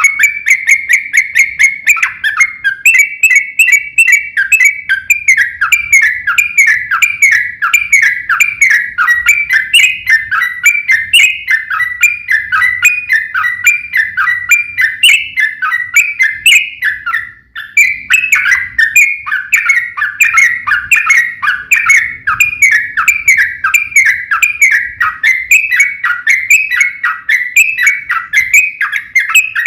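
Yellow-vented bulbul singing a long, fast, unbroken run of short falling whistled notes, with one brief pause partway through.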